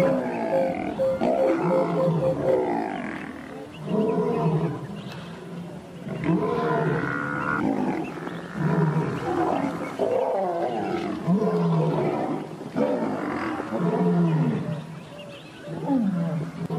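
Repeated loud roaring and bellowing animal calls from lionesses attacking a Cape buffalo. One call comes every second or two, with brief lulls, and several slide down in pitch.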